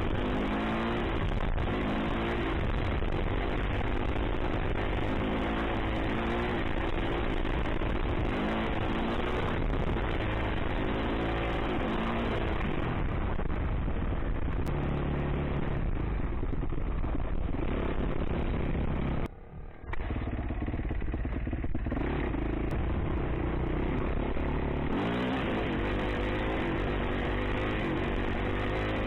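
Yamaha YZ450F four-stroke single-cylinder dirt bike engine under way, revving up and easing off again and again as the throttle is worked, over steady road and wind noise. The sound drops out briefly about two-thirds of the way through.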